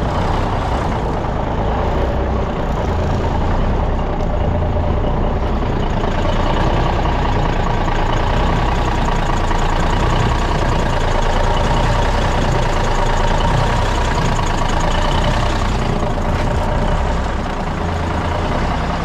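Cummins diesel engine of a Brockway truck running steadily, freshly brought back to life after sitting for decades. It runs a little louder through the middle, with a steady whine standing out, then eases back near the end.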